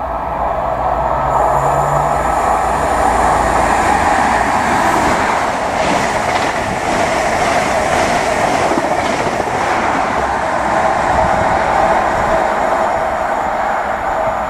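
InterCity 125 High Speed Train with Class 43 diesel power cars passing close at speed: a loud, steady rush of engine and wheels on rail, swelling over the first second or two, with a rapid clatter of wheels in the middle as the coaches go by.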